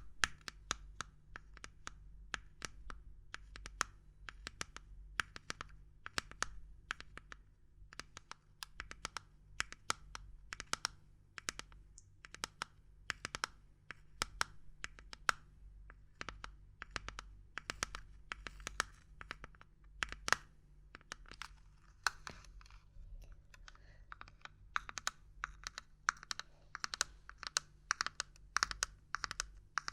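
Fast, irregular tapping and knocking on hard objects, several sharp taps a second, with stretches of scratching mixed in during the second half.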